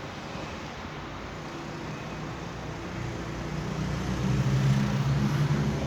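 A motor vehicle's engine passing outside, growing louder over the last few seconds to a peak near the end, then beginning to fade.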